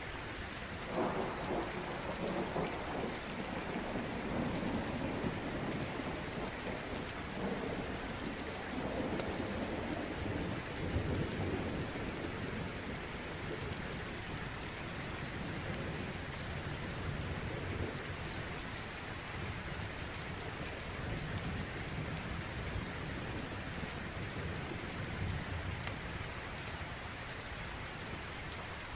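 Steady heavy rain with rolling thunder. A long low rumble builds about a second in and rolls on for several seconds, and a weaker rumble returns near the end.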